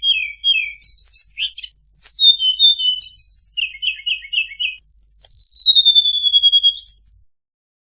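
Tledekan songbird singing a varied, high-pitched song of quick chirps, short rapid trills and repeated note groups, ending in a long falling whistle that sweeps sharply up at the end, then a brief pause.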